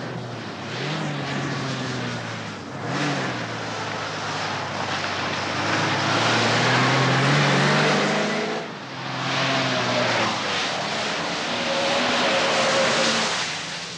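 Holden Commodore's 2.8-litre inline six with four-speed manual, driven hard: the engine note climbs several times with short breaks between the climbs, over steady tyre and road noise.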